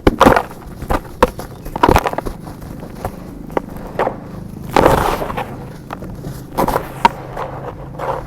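Chunks of dried dirt being crumbled and broken apart: a run of irregular crunches and crackles, loudest right at the start, around two seconds in and about five seconds in.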